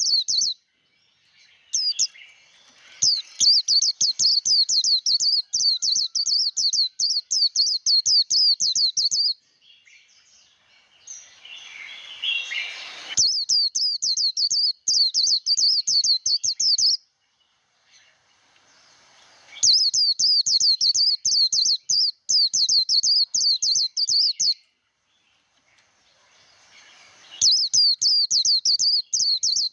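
White-eye (vành khuyên) singing its rapid, high chattering 'líu' song in bouts of several seconds broken by short pauses. There is a rougher, noisier stretch between bouts about 11 to 13 seconds in.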